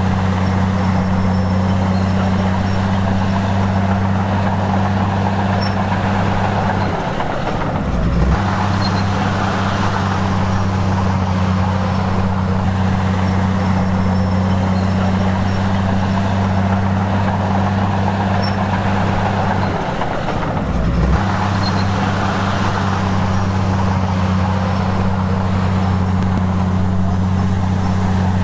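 Komatsu bulldozer's diesel engine running steadily under work, its pitch sagging briefly and recovering twice, about a quarter of the way in and again about two-thirds of the way in.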